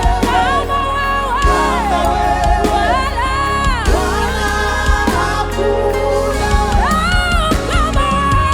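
Gospel praise-and-worship music: a sung melody with long held, sliding notes over a steady bass and regular drum hits.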